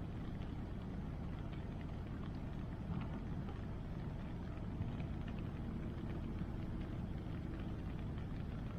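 Wood bonfire crackling with faint scattered pops over a steady low rush of river water and rain.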